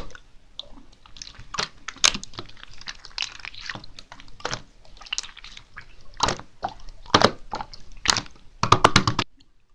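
Clear slime being handled by hand, giving irregular sticky clicks and wet crackling pops, with a quick run of pops just before it stops near the end.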